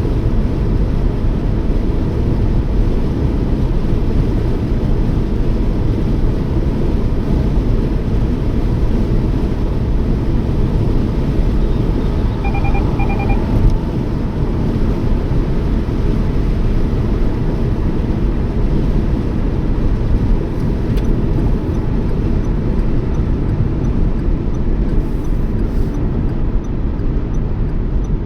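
Steady low rumble of road and engine noise from a Toyota Yaris driving. A short run of quick electronic beeps sounds about halfway through.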